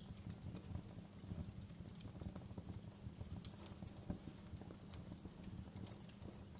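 Wood fire crackling in a fireplace: a steady low rumble with many small snaps and pops throughout, one sharper pop about three and a half seconds in.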